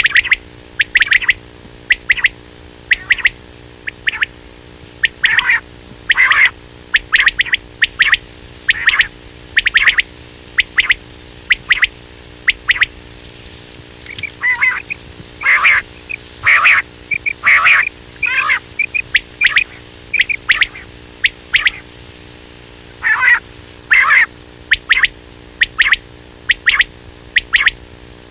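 Quail calling: a long series of short, sharp call notes, some single and some in quick groups, with a busier run of calls about halfway through, over a steady low hum.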